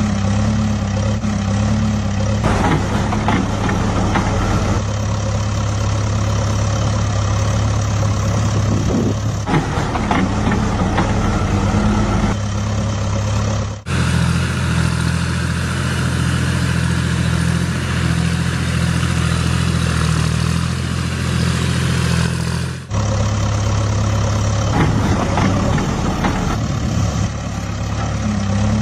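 Heavy diesel vehicle engines running steadily with a low, even hum. The engine note changes abruptly twice, about a third and three quarters of the way through.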